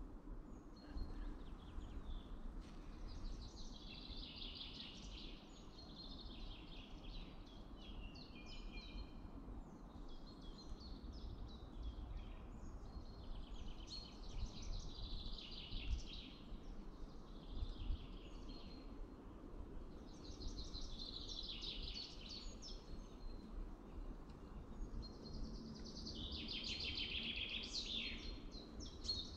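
Songbirds singing, short busy phrases following one another over a low, steady rumble of wind or handling noise, with two brief knocks a little past the middle.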